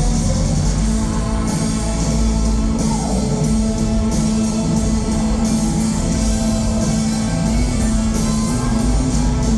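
Live rock band playing loud and steady, with electric guitars, bass and drums with cymbals.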